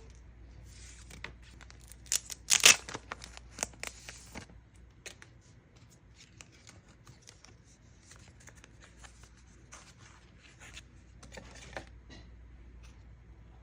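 Merchandise packaging handled and torn open by hand: a burst of tearing and crinkling about two to three seconds in, then scattered light clicks and rustles, with another rustle near the end.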